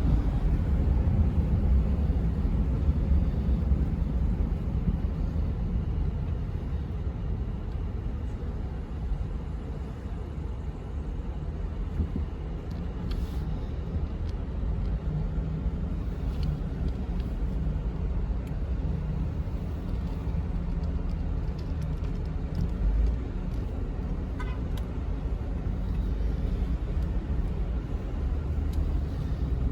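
Car on the road, a steady low rumble of engine and tyre noise.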